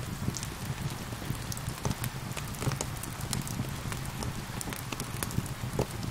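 Steady rain, mixed with the irregular pops and crackles of a wood fire.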